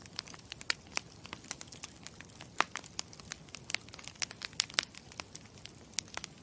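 Campfire crackling: many irregular pops and snaps, a few much louder than the rest, over a low steady hiss.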